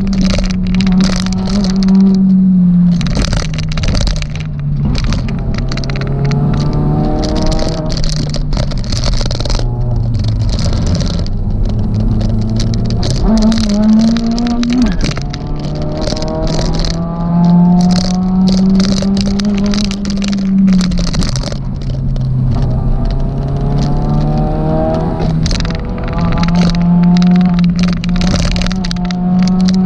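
Suzuki Swift Sport ZC32S's 1.6-litre four-cylinder engine heard from inside the car, pulling hard up the gears and dropping off for corners, its pitch climbing and falling several times. Frequent short rattles and clatters sound over it.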